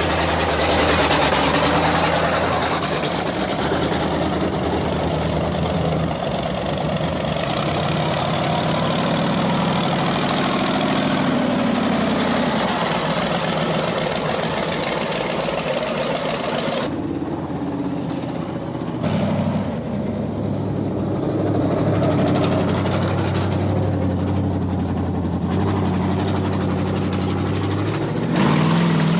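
Monster truck engines running loud and steady, the sound changing abruptly about seventeen seconds in.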